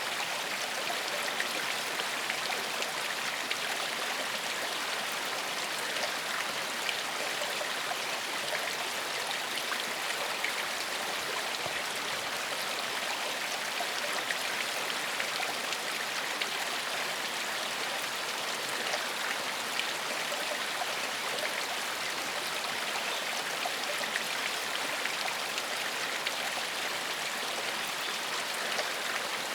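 Gentle forest stream flowing steadily over rocks, a continuous even rush of water.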